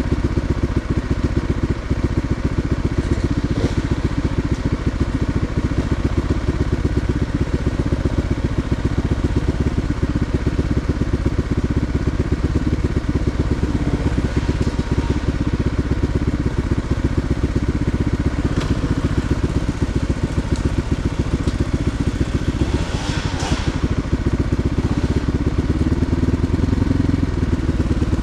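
Motorcycle engine running steadily, its firing pulses even throughout, with a short hiss about three quarters of the way through.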